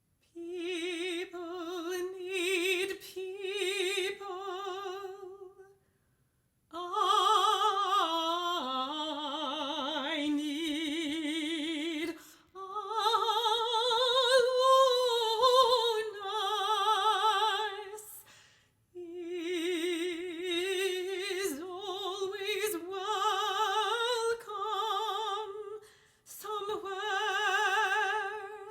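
A solo classical voice singing unaccompanied in an operatic style with a wide vibrato. It sings long-held phrases in a fairly high range, broken by short pauses about six, nineteen and twenty-six seconds in.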